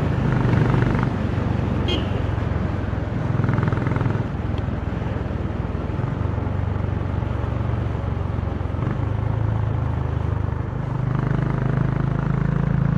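Honda CB350's single-cylinder engine and exhaust running under way, the note rising and falling with the throttle and getting louder about three seconds in and again near the end.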